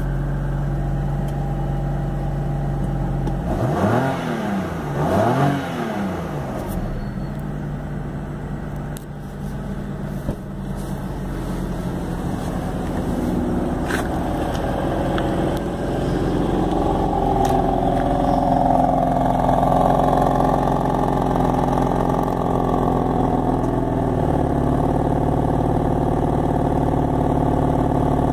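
BMW M4's twin-turbo 3.0-litre straight-six idling, revved twice in quick succession about four seconds in. From about halfway it is held at a higher, busier note, then drops back to idle a few seconds before the end.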